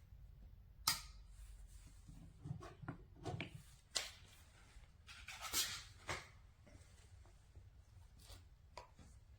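Scattered clicks and knocks with a brief rubbing rustle, as objects are handled, over a faint low hum. The sharpest click comes about a second in, a cluster of knocks follows a couple of seconds later, and the rustle runs about halfway through.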